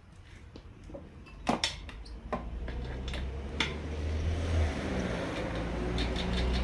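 A few sharp metallic clicks and knocks, then a small motor starts about halfway through and keeps running with a steady low hum.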